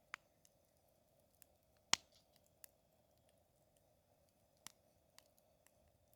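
Wood campfire crackling faintly: about eight sharp pops and snaps at irregular intervals, the loudest about two seconds in.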